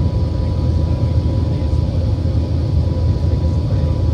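Airbus A380 cabin noise in flight: a steady low rumble of the engines and airflow, with a faint constant whine on top.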